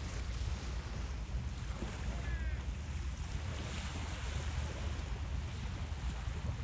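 Wind rumbling on a phone's microphone over a steady wash of outdoor noise, with a brief high chirp about two seconds in.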